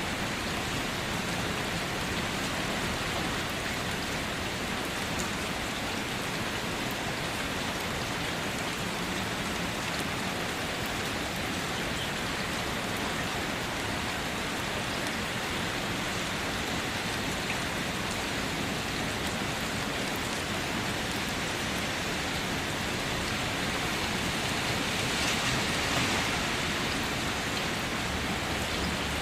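Steady rain falling, an even hiss with scattered drop patter, briefly swelling a little louder near the end.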